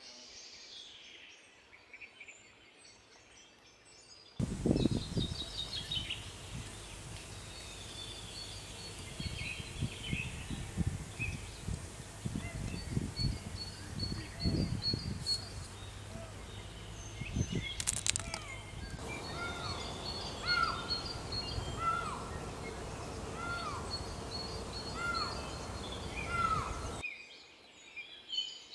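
Small birds singing and chirping outdoors, with high, quick notes repeated in short rows. About four seconds in, the sound cuts to a louder take with low knocks and rumbles. From its middle onward, a short downward-sliding call repeats about once a second.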